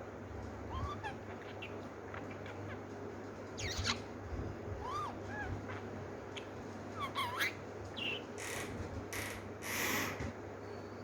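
Pet lovebird making scattered short chirps and squeaks, with a few harsher, noisier calls near the end, over a steady low hum.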